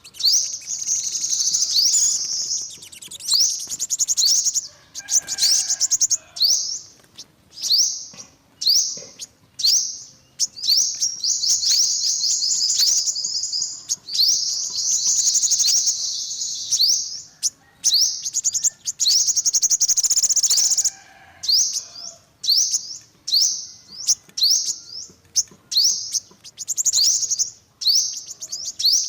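Yellow-bellied sunbird singing: fast, high twittering phrases, short bursts alternating with longer trills lasting a few seconds.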